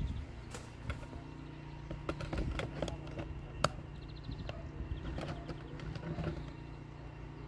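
Pressure washer running steadily during a rinse down: a constant motor hum under the hiss of the water jet, with scattered clicks and ticks.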